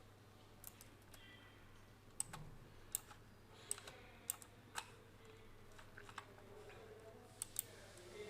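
Scattered, faint clicks of a computer keyboard and mouse, about a dozen at irregular intervals, over a low steady hum.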